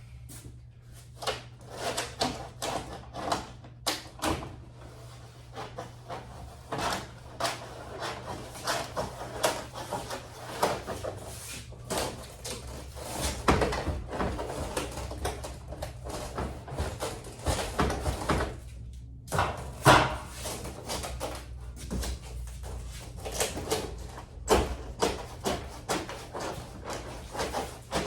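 Irregular knocks, taps and scrapes over a steady low hum.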